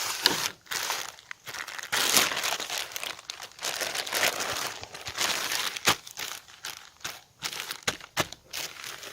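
Plastic packaging being handled, crinkling and rustling in irregular bursts with small crackles.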